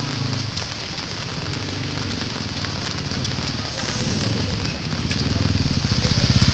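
Strong wind blowing in a storm: a loud, steady hiss with a low rumble, which grows louder and pulses near the end.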